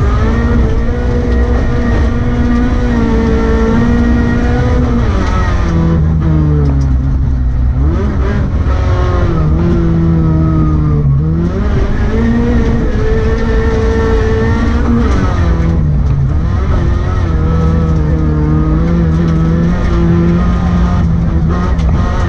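Rally car engine running hard on a stage, its note held high and then dropping and climbing again about four times, over a constant deep rumble.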